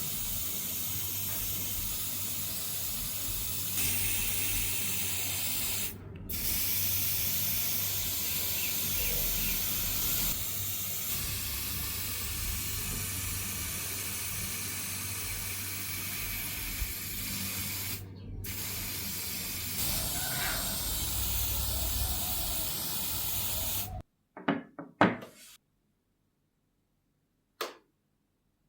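Steady spray hiss, as of spray painting, with two brief pauses about six and eighteen seconds in. It stops abruptly about 24 seconds in, followed by a few light clicks.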